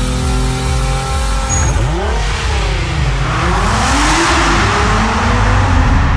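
Infiniti Q50 Eau Rouge's twin-turbo V6 holding a steady note, then revving up and down in repeated rising and falling sweeps from about two seconds in. A loud rushing hiss swells over the engine around the middle.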